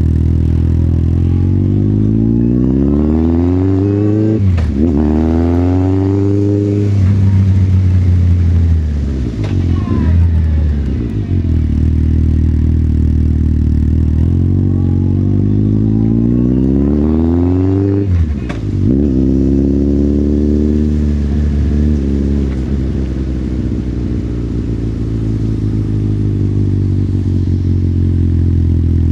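Motorcycle engine pulling away and accelerating, its pitch climbing and then dropping sharply at a gear change. This happens twice, with steady running at an even speed in between.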